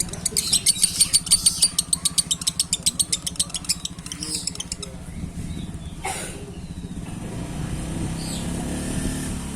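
Lovebird chattering in a long, rapid trill of sharp high chirps, about eight a second, which stops about five seconds in. A low engine hum runs underneath and grows louder near the end.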